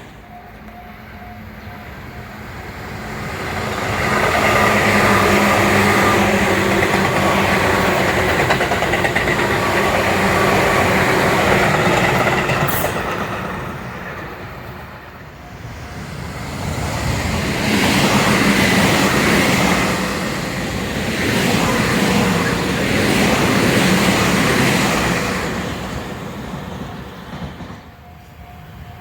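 Tobu Tojo Line electric commuter trains passing, with motor whine and wheels running on the rails. The sound swells loud twice, with a brief high click near the middle.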